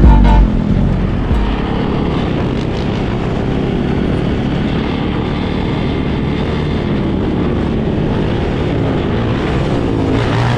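Engines of a big pack of dirt bikes and ATVs running together in a dense, steady drone, with engines revving up near the end.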